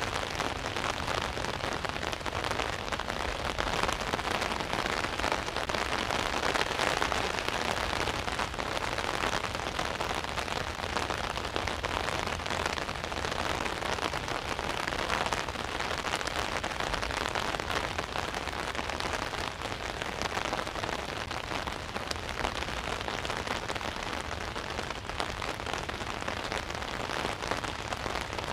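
Rain falling steadily on an umbrella overhead: a dense, even patter of countless drop hits, growing slightly heavier a few seconds in and again about halfway through.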